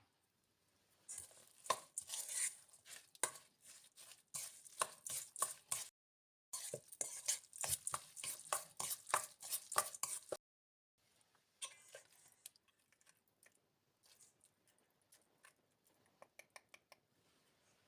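Knife chopping food on a cutting board in quick repeated strokes, in two runs broken by brief silent cuts. Fainter scattered taps and clicks follow in the last several seconds.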